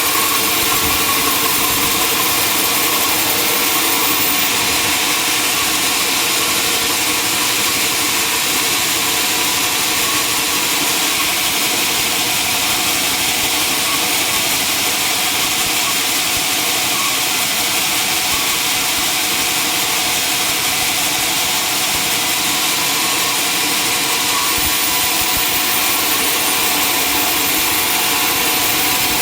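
Sawmill machinery running steadily: a constant engine hum with a hiss over it, unchanging throughout.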